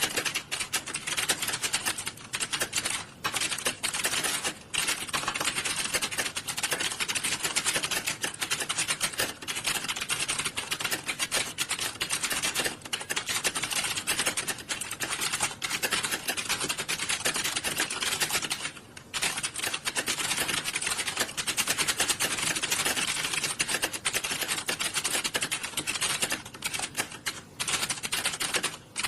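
Computer keyboards clattering in an exam hall: many people typing at once, the keystrokes running together into a dense, continuous rattle that eases only briefly a couple of times.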